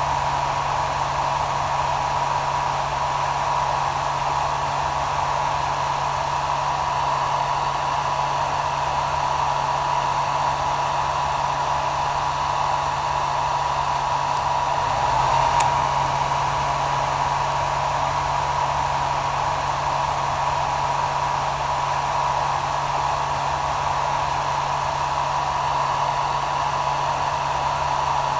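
Hair dryer running steadily: a continuous rush of air with a steady high motor whine and a low hum underneath. There is a brief faint tick about halfway through.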